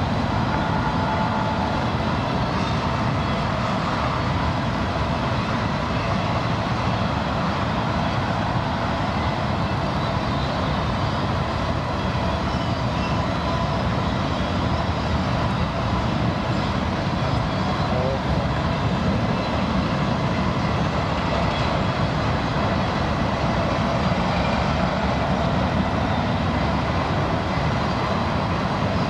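Intermodal freight train cars carrying truck trailers rolling past, a steady rumble and rush of steel wheels on rail.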